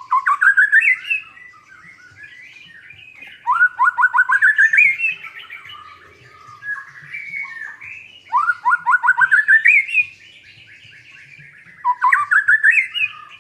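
White-rumped shama (murai batu) singing: four loud phrases, each a quick run of notes climbing in pitch, with softer warbling phrases in between.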